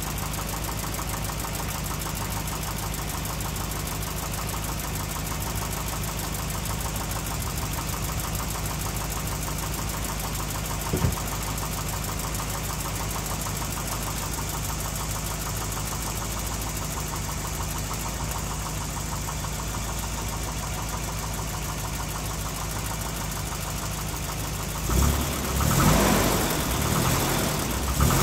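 1992 Volvo 244's engine idling steadily after a jump start, having sat for a long time, and a little bit on the loud side. A single short click comes about eleven seconds in, and louder, uneven sounds come in over the last few seconds.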